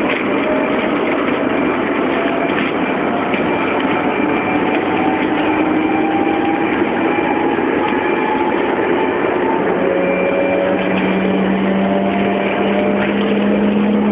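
Shinkansen train heard from inside the passenger car: steady running noise with a faint motor whine whose pitch climbs slowly as the train gathers speed. A lower hum joins about ten seconds in and also rises slightly.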